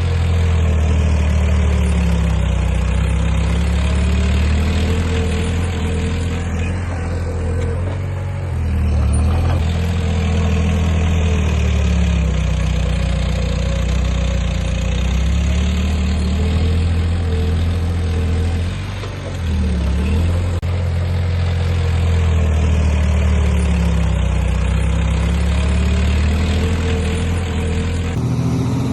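Heavy earthmoving machine's engine running under working load, its pitch sagging and recovering every few seconds as it works, with brief dips in level about a third and two-thirds of the way through.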